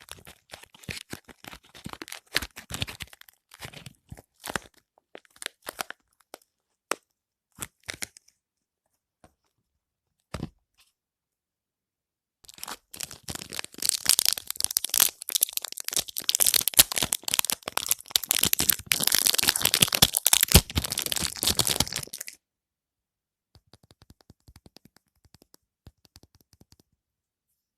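Soap wrapper packaging being torn open and unwrapped by hand. Scattered crinkles and crackles are followed by a pause with a single knock, then about ten seconds of dense, loud crinkling and tearing that trails off into faint rustles.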